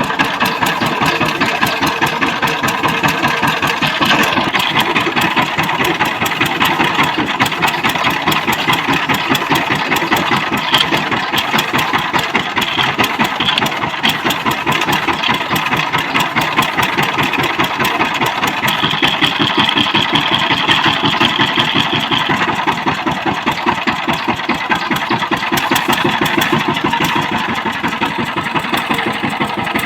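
Power tiller engine running steadily with an even, rapid chugging pulse.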